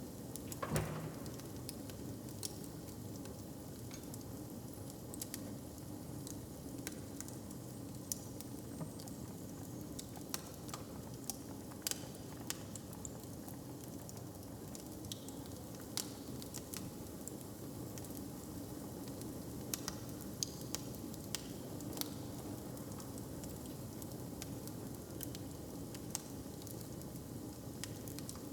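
Fire crackling, with scattered sharp pops and snaps over a steady low rumble. One louder pop comes about a second in.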